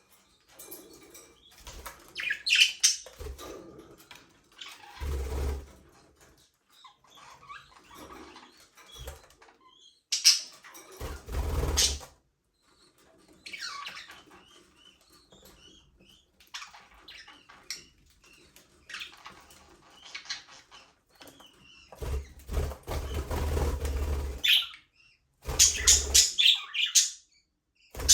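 A flock of budgerigars chirping and chattering in an aviary, in uneven bursts, with several louder, noisier bursts mixed in.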